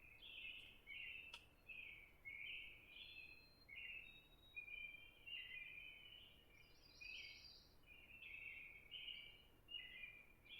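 Faint chirping of small songbirds: a steady run of short, overlapping calls, with a brief higher-pitched trill about seven seconds in.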